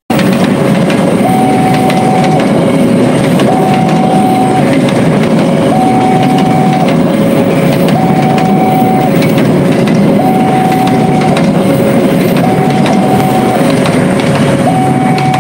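Passenger train carriages rushing past on the rails with a heavy, continuous rumble of wheels and running gear, plus repeated clacks over the rail joints. Over it the level-crossing warning alarm keeps sounding, switching back and forth between a higher and a lower tone, each held about a second.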